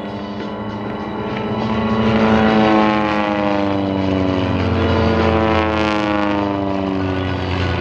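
Van's RV-8 propeller planes flying past: a steady engine-and-propeller drone that falls in pitch as each plane goes by, twice. The loudest pass comes about two and a half seconds in.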